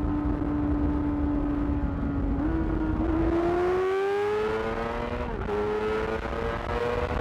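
Yamaha R6's 600 cc inline-four running through a Termignoni exhaust: it holds a steady high engine note, then from about two and a half seconds in the revs climb. About five seconds in there is a brief dip in pitch, an upshift, and the revs then settle higher.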